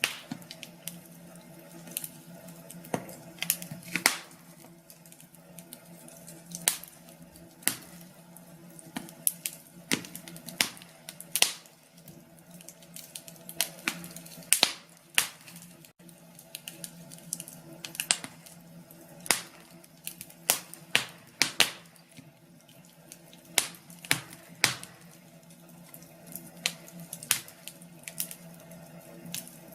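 Wood fire crackling in a fireplace, with irregular sharp pops and snaps that come singly and in quick clusters, over a faint steady low hum.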